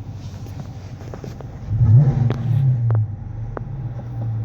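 2015 Dodge Challenger R/T's 5.7-litre Hemi V8 idling, then revved once about two seconds in: the pitch rises quickly, holds for about a second and falls back to idle.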